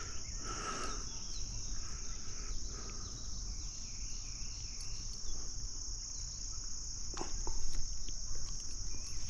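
Steady, high-pitched insect chorus droning without a break, with a few faint bird chirps and a couple of soft knocks about seven seconds in.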